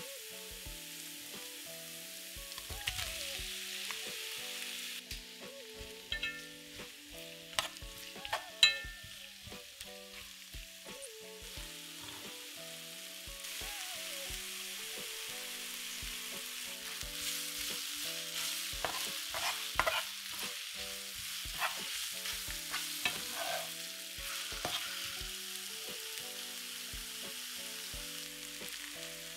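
Sliced onions and porcini mushrooms sizzling in butter in a non-stick frying pan, with a spatula clicking and knocking against the pan as they are stirred. The sizzle grows louder about halfway through.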